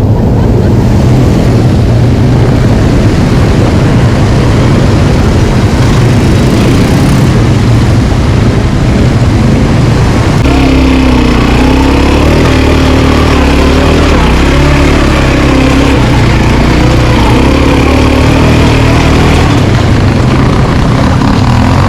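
Quad bike (ATV) engine running under way, loud and close, with its engine note changing suddenly about ten seconds in to a steadier, more pitched drone.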